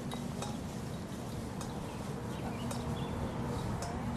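Reenactors marching with shouldered muskets: scattered light clicks and clinks of their gear and steps, with short bird chirps and a steady low hum beneath.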